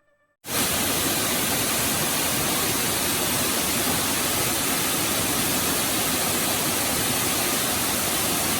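Waterfall, its falling water making a steady, even rush that starts abruptly about half a second in.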